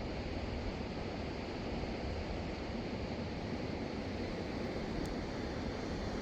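Steady wind noise rumbling on the microphone, with no distinct events.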